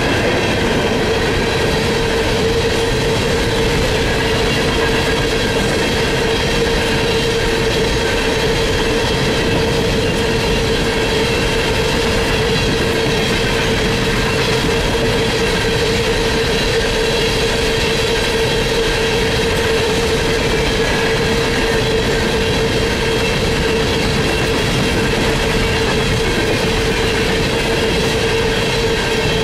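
Coal train hopper cars rolling past at speed: a steady, loud rumble of steel wheels on rail, with a continuous ringing whine held at one pitch over it.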